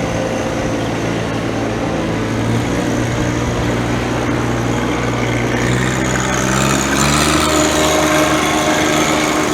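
John Deere 1025R's three-cylinder Yanmar diesel engine running steadily, then picking up speed about six seconds in and holding at the higher pitch.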